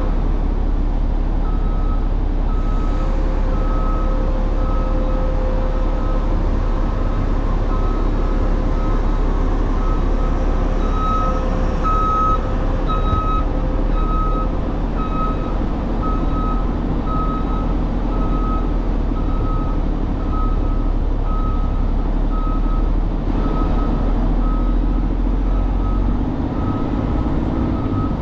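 A truck engine runs with a steady low rumble while a reversing alarm beeps throughout, one high tone repeating evenly a little more than once a second.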